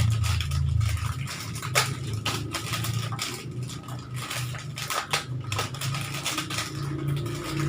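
Plastic snack packets and wrapping being handled, crinkling and crackling in short irregular bursts, over a steady low hum.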